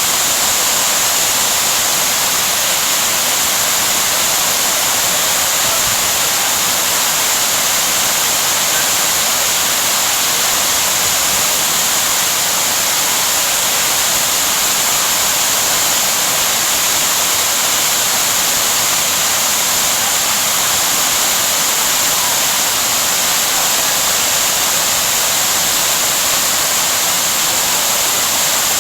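Waterfall pouring: a loud, steady, unbroken rush of falling water close by.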